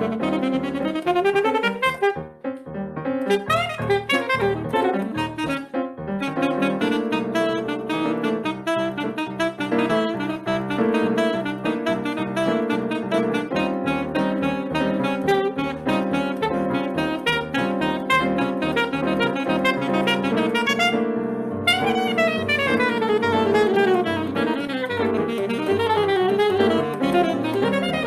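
Live saxophone playing Brazilian jazz with piano accompaniment, fast runs of notes rising and falling, with a brief dip in level about two seconds in.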